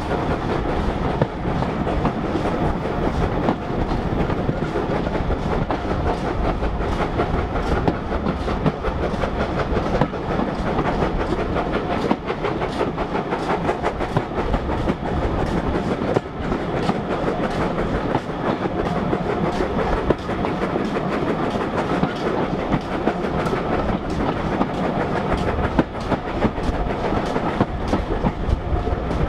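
Heritage railway train running along the line: a steady rumble, with the wheels clicking over the rail joints.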